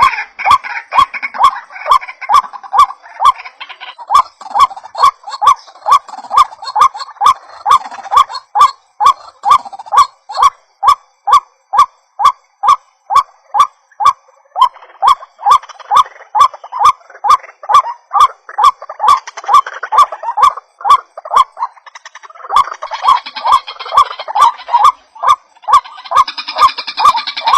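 White-breasted waterhen calls played as a trapping lure: a long, steady series of harsh notes, about three a second. A denser layer of overlapping calling joins in over the first few seconds and again near the end.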